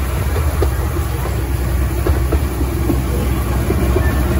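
Small park train running along its track, heard from an open carriage: a steady low rumble with scattered clicks and knocks from the wheels and rails.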